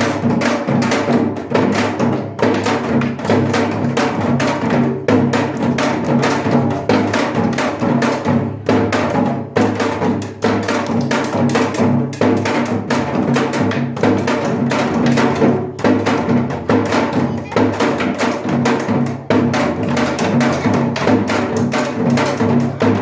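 Percussion-led music: drums struck in a fast, steady rhythm over held musical tones.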